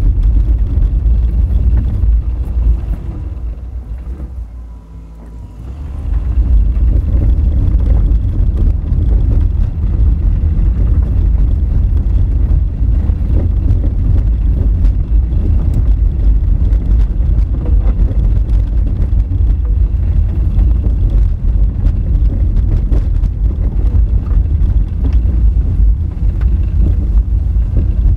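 Honda Fit driving on a rough, rocky gravel road: a loud, low rumble of tyres and suspension over the rough surface. It drops away briefly about three to six seconds in, then comes back.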